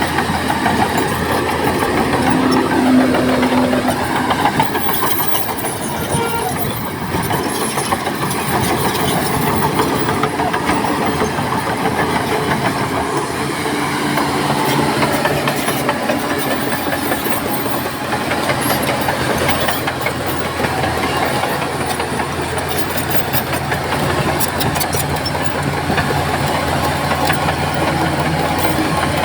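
Crawler bulldozer's diesel engine working under load, its note shifting as the machine pushes, with track clatter; it is loudest and clanks more toward the end.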